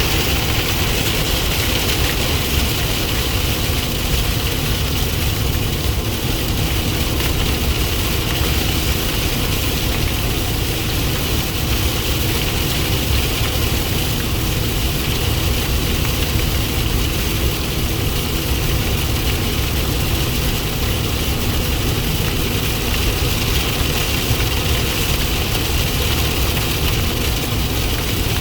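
Heavy rain with big fat raindrops falling steadily, a constant loud rushing noise with a low rumble underneath.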